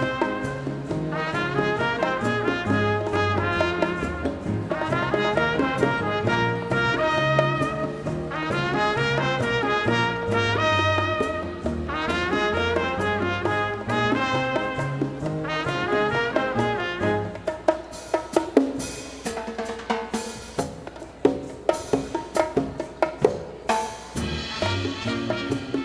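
Live big band playing Latin dance music, with trumpets and trombones over a steady bass and drums. About two-thirds of the way through the horns drop out, leaving a stretch of sharp drum and percussion hits, and the brass comes back in near the end.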